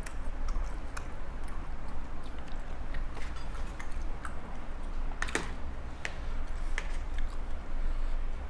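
A person chewing a mouthful of papaya salad and rice noodles close to the microphone, with scattered small wet clicks and smacks of the mouth.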